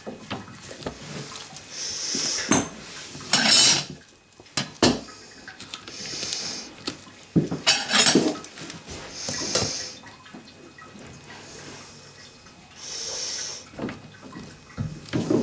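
Hand tools and metal parts clinking and knocking during work on a toilet flange, with short scraping strokes every few seconds.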